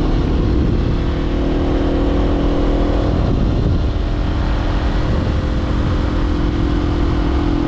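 Honda CBR500R's parallel-twin engine through an aftermarket LeoVince LV10 exhaust, riding at steady speed with wind rushing over the microphone. The engine note wavers and shifts about three to five seconds in, then holds steady again.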